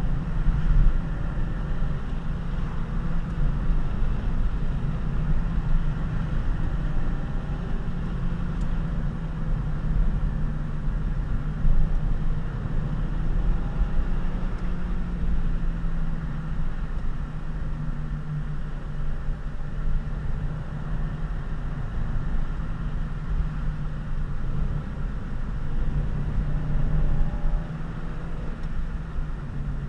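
Honda Civic FG2 coupe's four-cylinder engine running steadily while driving, heard from inside the cabin over tyre and road noise; its pitch rises and falls a little with the throttle.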